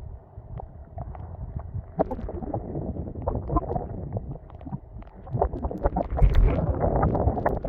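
Strong wind buffeting the microphone, a rough low rumble that grows louder about two-thirds of the way through, with irregular taps and knocks mixed in.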